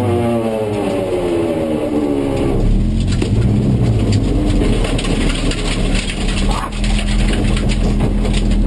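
Rally car engine heard from inside the cabin, its revs falling as the car slows. About two and a half seconds in, the engine note gives way to a low rumble and a steady hum, with many clicks and rattles.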